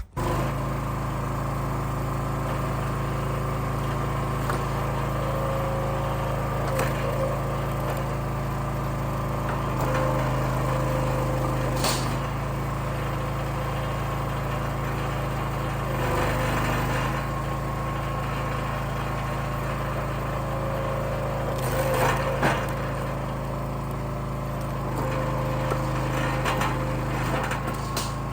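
Engine of a Wolfe Ridge log splitter running steadily, its note shifting every few seconds as it takes the load of splitting, with occasional sharp cracks and knocks of splitting wood, the loudest about twelve seconds in.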